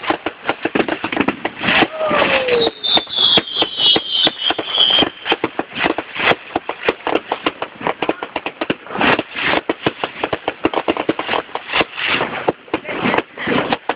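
Fireworks crackling and popping in a dense, irregular stream, with a falling whistle about three seconds in.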